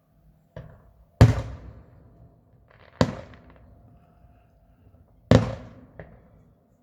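Fireworks bursting overhead: three loud bangs about two seconds apart and two smaller ones, each trailing off in an echoing rumble.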